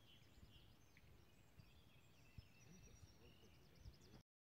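Near silence with faint birds chirping in the distance over low background noise; the sound cuts out completely just before the end.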